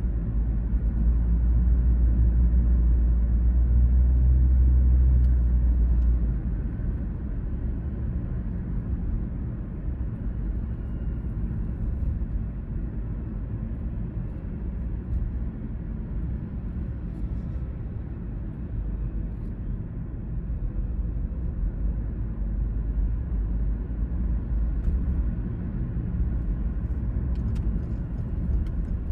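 A car on the move: a low, steady rumble of engine and tyre road noise, louder for the first six seconds or so and then settling to a lower level.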